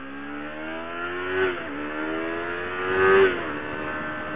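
Yamaha R6 sportbike's inline-four with a short aftermarket exhaust, accelerating hard through two upshifts. The pitch climbs, drops at a shift about a second and a half in, climbs again and drops at a second shift near three and a half seconds, then holds steady.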